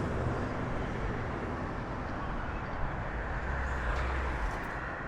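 Steady jet airliner engine noise, an even rumble with no distinct events.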